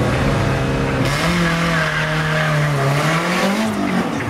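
Engine of a first-generation Renault Clio hatchback on a slalom course, running at steady revs, then rising briefly and easing off near the end.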